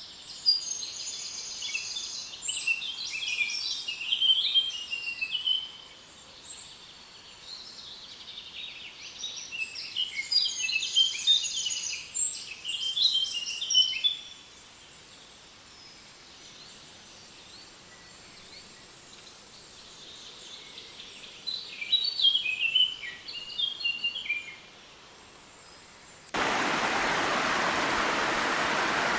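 A songbird singing three long phrases of quick, high chirps and trills, separated by pauses over faint background hiss. Near the end the sound switches suddenly to loud, steady rushing water of a stream or small waterfall.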